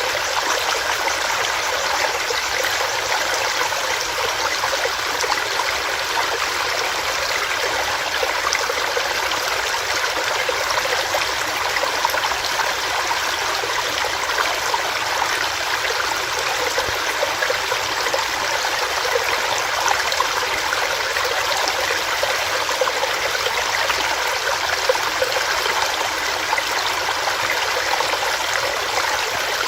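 Small stream running over rocks: a steady, even rush of water.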